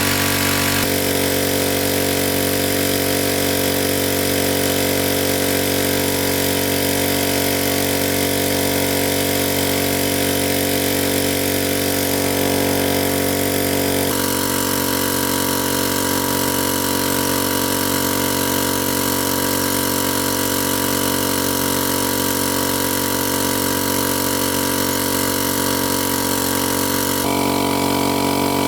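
Small engine running steadily at a constant speed, its tone shifting abruptly about halfway and again near the end.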